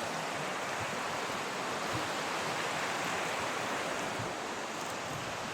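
A river's flowing water rushing steadily.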